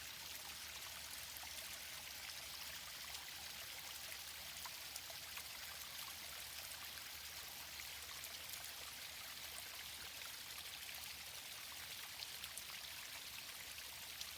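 Small waterfall splashing steadily: an even, unbroken rush of falling water.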